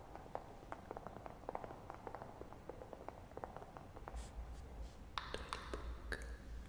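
Wood fire crackling with many small scattered pops over a soft hiss; from about four seconds in, a low rumble and a few louder rustles are added, like paper being handled or written on.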